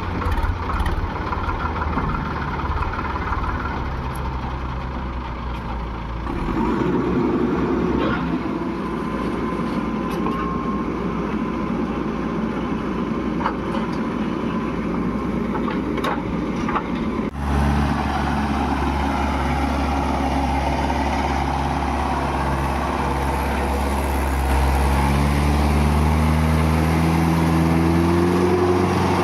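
Heavy diesel engines of a backhoe loader and farm tractor running while mud is loaded. There is an abrupt change about 17 seconds in, then an engine speeds up with rising pitch near the end.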